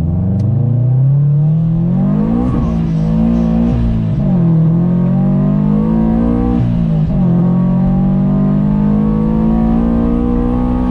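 Supercharged 2018 Subaru BRZ's flat-four engine, breathing through a catless header and single-exit exhaust, accelerating hard. Its pitch climbs, dips briefly at each of about three gear changes, then climbs again.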